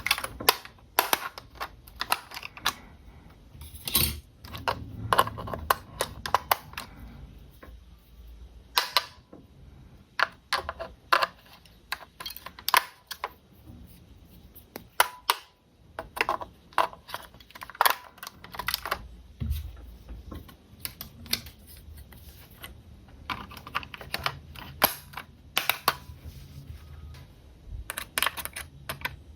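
Irregular sharp clicks and taps of hard plastic being handled, as a toy RC car and its packaging are unboxed. They come in quick clusters separated by short pauses.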